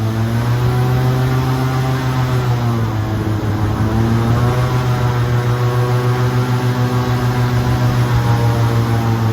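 Airboat's engine and air propeller running at speed, a loud, steady drone. Its pitch dips slightly a couple of seconds in and comes back up.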